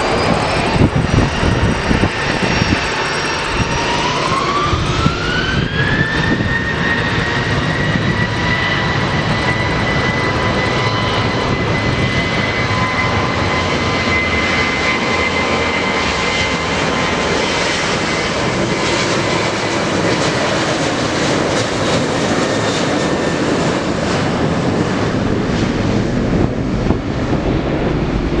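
Jet aircraft engines spooling up: a whine rises in pitch about four seconds in, then holds steady over a loud, continuous roar.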